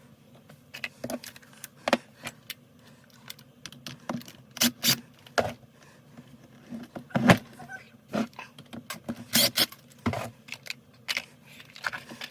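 Irregular clicks and clinks of metal hand tools and small parts being handled while an Echo CS-3000 chainsaw is taken apart, with a few louder knocks, over a faint steady hum.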